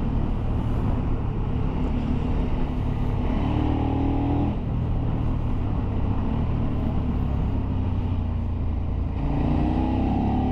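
Motorcycle engine running under way over a steady rush of wind noise, the revs rising as it accelerates about three seconds in and again near the end.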